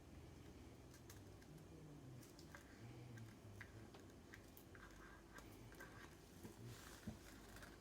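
Near silence: quiet room tone with a few faint small clicks and taps.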